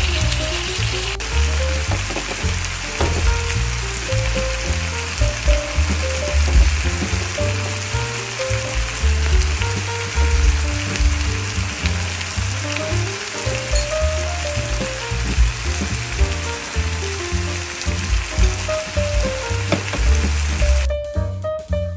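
Diced chicken breast, onion and bell pepper sizzling in a frying pan, with background music and a bass line underneath. The sizzling stops abruptly about a second before the end, leaving only the music.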